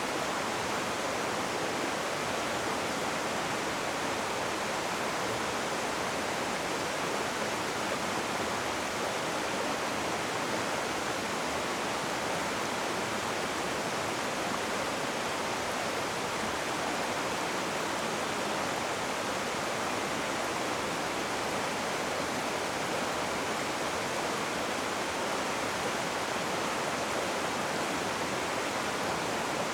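Rushing river water: a steady, even rush of white water with no breaks or changes.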